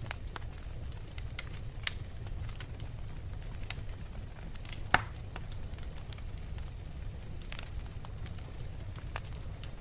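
Wood fire burning in a fireplace: logs crackling with scattered sharp pops over a steady low rush of flame, the loudest pop about five seconds in and another about two seconds in.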